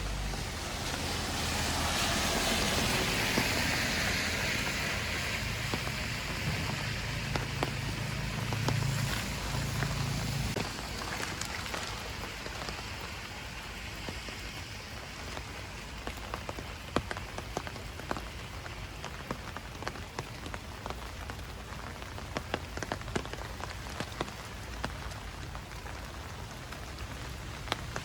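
Light rain and water dripping onto leaves and the path: a steady hiss with many separate sharp drip ticks, more of them in the second half. For the first ten seconds a louder hiss with a low hum sits over it, then fades out.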